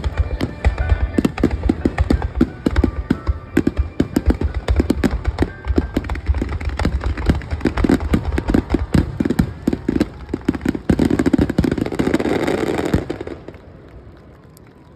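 A dense barrage of aerial fireworks bursting, several booming bangs a second, with a thick crackle swelling near the end before it all dies away.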